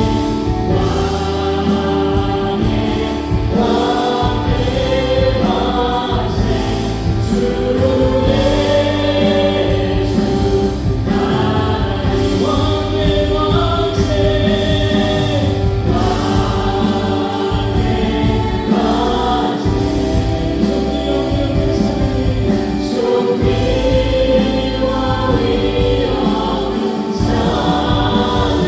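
A live church praise band playing a worship song: several voices sing together over keyboards, bass, electric guitar and drums.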